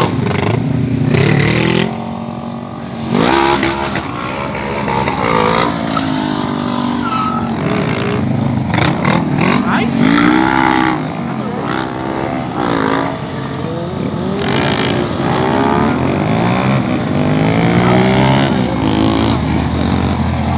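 Several motorcycles revving their engines, the pitch rising and falling again and again over a steady running background.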